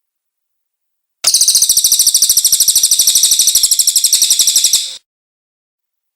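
Cililin bird calling: a loud, high-pitched trill of very rapid, even notes, about twenty a second, starting a little over a second in and lasting nearly four seconds.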